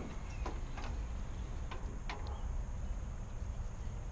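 A few light, sharp clicks and taps of hand work on a headlight bezel's screws and trim, scattered through the first half, over a steady low rumble.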